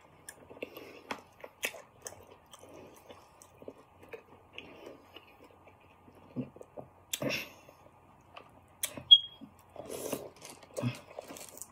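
Close-miked eating: chewing, smacking and small clicks of food in the mouth, in scattered bursts with short pauses. About nine seconds in, a sharp click is followed by a single short high beep.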